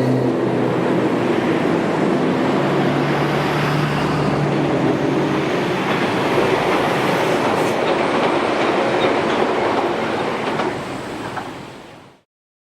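Electric train running past on the rails, wheels clattering over the track with a low steady hum underneath. The sound weakens and then cuts off abruptly near the end.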